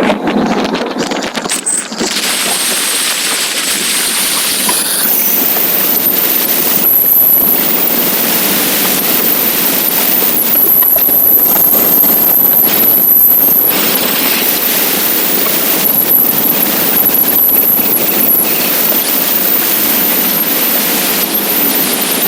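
Wind rushing and buffeting over the microphone of a camera on a moving motorcycle, a loud steady rush with crackle that covers any engine sound.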